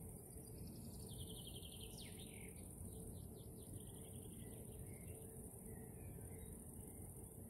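A songbird sings a few short chirping trills over a steady low background rumble. The song fades out about halfway through.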